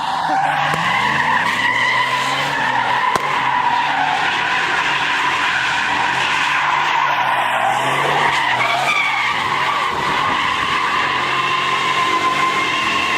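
Tyres squealing in a long steady screech as a vehicle does a burnout or donuts, with the engine revving up and down underneath.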